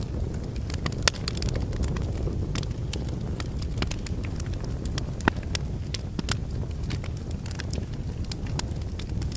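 Logs burning in a fireplace: a steady low rumble of flames with frequent irregular crackles and pops, the sharpest about a second in and again just past five seconds.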